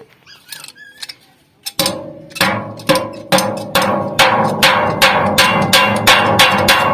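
Hammer blows on aluminium sheet metal, starting about two seconds in and going on evenly at about two and a half strikes a second, each with a metallic ring that carries between blows.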